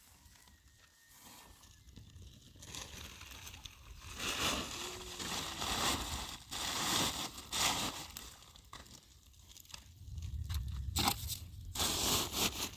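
Irregular crunching and rustling noises, loudest in the middle and again near the end, with a low rumble near the end.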